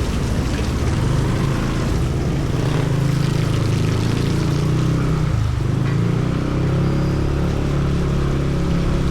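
Motorcycle engine running on the move, its note dipping briefly about halfway through and then settling, under a steady hiss of heavy rain.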